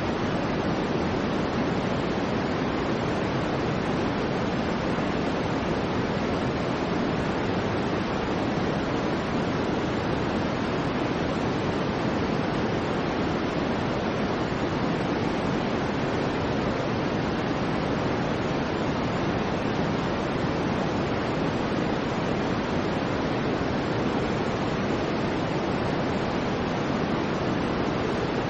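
Soft white noise for baby sleep, weighted toward the low end: an even, steady hiss that does not change.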